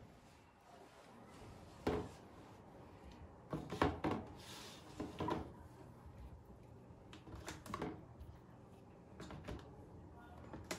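A series of short knocks and clunks from refrigerator drawers and food containers being handled while the fridge is organized, loudest about two and four seconds in.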